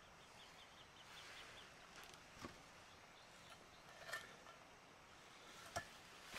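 Near silence, with faint, quick, high-pitched chirps of a small bird in the first second or so and a few more later, and three or four soft, separate clicks.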